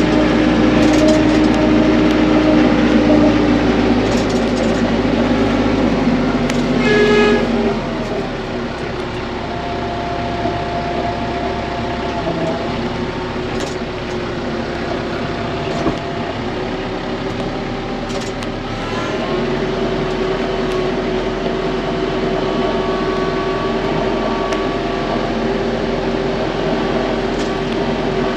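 TYM compact tractor's diesel engine running steadily. Its note drops and it gets quieter about seven seconds in, then rises again about nineteen seconds in.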